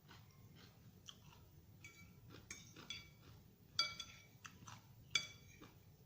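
Eating utensil clinking against a salad dish: several short ringing clinks, the two loudest about four and five seconds in, with soft chewing of raw vegetables between.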